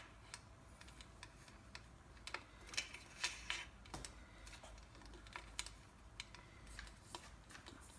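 Faint, irregular light clicks and taps of small parts being handled: a small hook and cable connectors being worked into an ebike frame.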